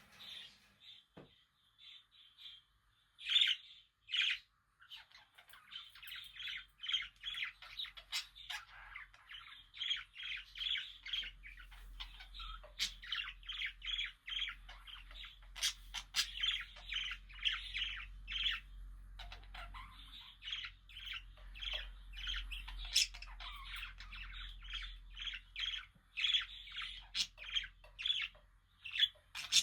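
Budgerigars chirping and chattering: a rapid run of short, squawky chirps at several a second. Sparse and quiet at first, with two loud chirps about three and four seconds in, then near-continuous. A faint low hum sits underneath from about a quarter of the way in.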